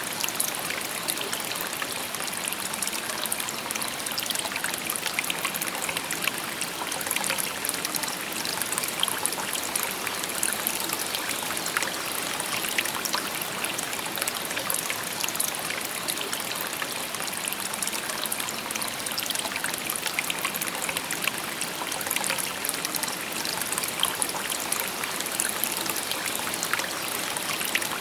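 Shallow river babbling steadily over stones, a continuous even rush of water with lots of small splashes and trickles.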